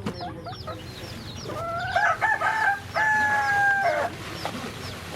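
A rooster crowing: a run of short broken notes, then one long held note that cuts off about four seconds in, over steady high-pitched cheeping.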